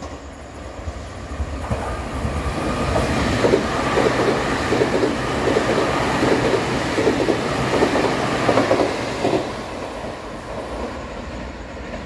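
Taiwan Railways stainless-steel electric multiple unit passing through the station without stopping: the rumble of its wheels on the rails builds, with a regular clickety-clack as the cars cross the rail joints. It is loudest from about three to nine seconds in, then fades as the train moves away.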